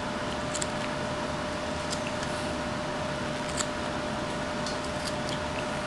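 Steady room hum and hiss with a constant tone, and a few faint, short ticks from a whittling knife cutting butternut wood, about five in all, irregularly spaced.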